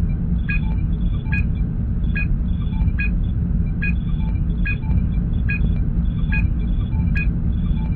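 Starship bridge ambience sound effect: a steady deep engine rumble with a short electronic beep repeating about every 0.8 seconds, fainter lower blips between them.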